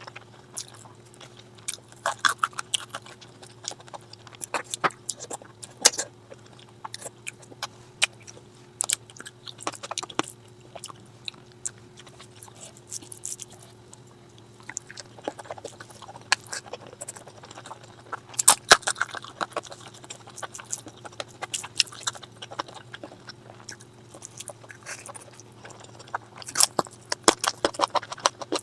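Close-miked eating sounds of a person chewing food: irregular wet smacks and clicks of the mouth, with busier stretches about two seconds in, around eighteen seconds in and near the end. A steady low electrical hum runs underneath.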